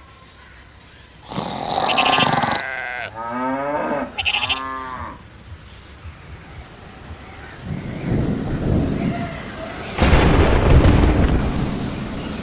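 Cattle mooing several times, followed about ten seconds in by a sudden loud rumble like thunder that fades over a couple of seconds. A faint high tick repeats about three times a second underneath.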